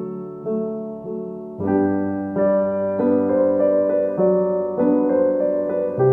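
Background piano music: a calm melody over sustained chords, with a new note or chord about every half second, fuller from about a second and a half in.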